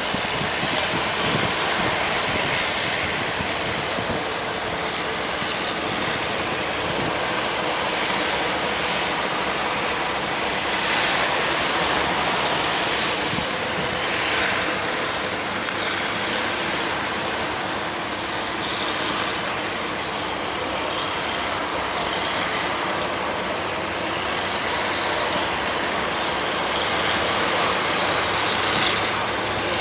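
Heavy surf: big waves breaking and washing in, a loud steady rush that swells about a third of the way in and again near the end.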